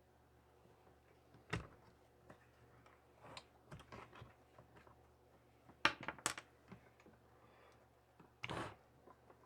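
Faint, scattered clicks and knocks of hand tools and small chainsaw parts being handled: a sharp knock about a second and a half in, a quick cluster of clicks around six seconds, and a short rustle near the end.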